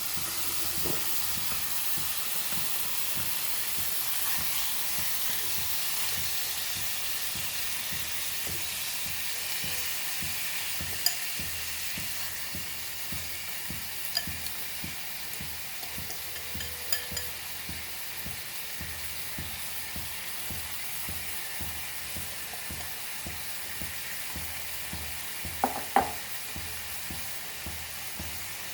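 Marinated chicken sizzling steadily as it fries on high flame in a pan, in the oil of its marinade. A few light clicks and one louder knock near the end.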